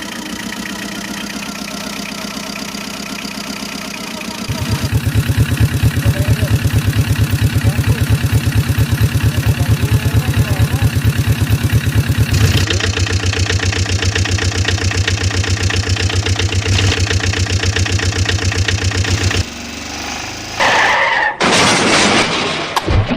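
Engine sound effect of a heavy vehicle running with a steady rhythmic chugging. It jumps abruptly louder and deeper about four seconds in, changes again around twelve seconds, and cuts off near the end, where a shorter, noisier sound takes over.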